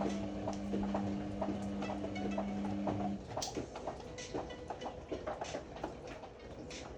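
Ariston AML125 washer-dryer running, its drum motor giving a steady hum under irregular clicks and knocks of the tumbling load. The motor hum cuts off about three seconds in while the knocking continues.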